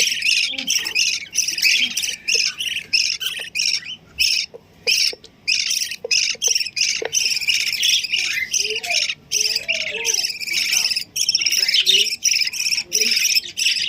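Small pet birds calling nonstop, with rapid, overlapping, high-pitched chirps and squawks.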